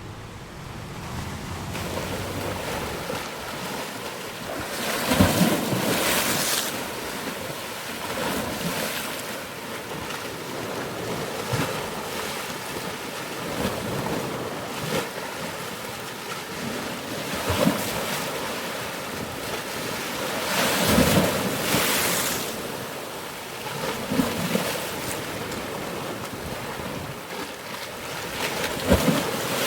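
Ocean waves breaking and washing on a shore, a steady rush that swells with each wave every few seconds, the biggest breakers about five seconds in, around twenty seconds and near the end.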